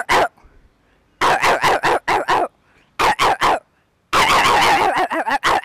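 A woman imitating a bulldog's barking with her voice: short gruff barks in quick runs of two to five, with one longer unbroken stretch about four seconds in.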